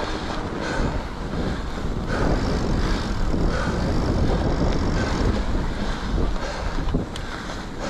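Steady wind rush on the microphone over the rumble of a mountain bike's tyres and frame rolling along packed snow.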